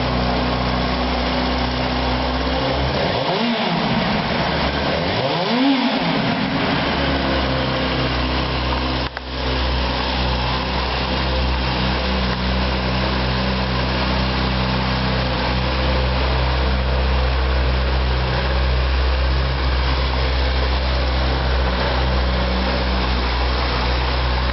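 2003 Yamaha YZF-R6's 600 cc inline-four on its stock exhaust, idling steadily just after starting, with two quick throttle blips about three and five seconds in.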